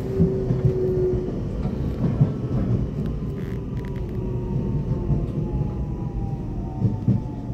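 Inside an electric train in motion: steady rumble of the wheels on the rails with scattered clicks, and from about halfway a motor whine falling slowly in pitch as the train slows toward a station.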